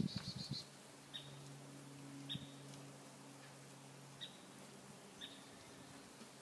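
A bird calling faintly in the open: a rapid high trill that stops about half a second in, then single short high chirps about once a second.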